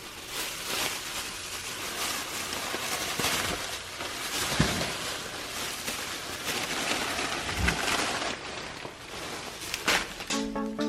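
Grocery bags being loaded into a car's trunk: steady rustling and handling noise, with a thump about four and a half seconds in and another about seven and a half seconds in. Background music with a steady beat starts near the end.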